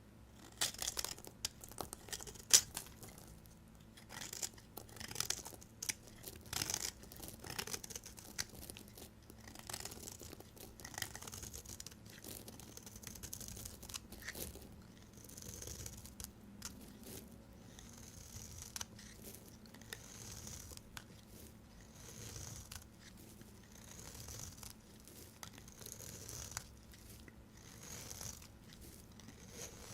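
Knife cutting through dry bars of soap with crisp crunching cuts. The cuts come thick and irregular for the first several seconds, then settle into a regular slicing stroke about every second and a half.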